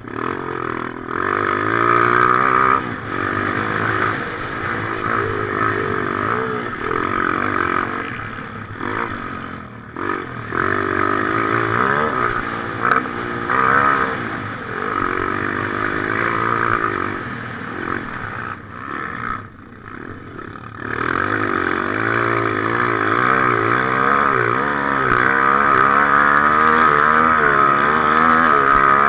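Motocross motorcycle engine heard from the rider's helmet camera, revving up and down again and again through the throttle and gear changes of a race lap. The engine briefly drops off twice, about a third and two-thirds of the way through, then runs high near the end.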